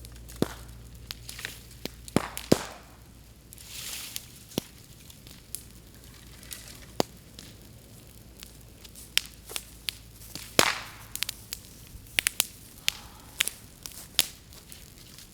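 Bamboo burning in an open bonfire, crackling with irregular sharp pops and cracks, a few of them loud, as the sealed bamboo sections burst in the heat.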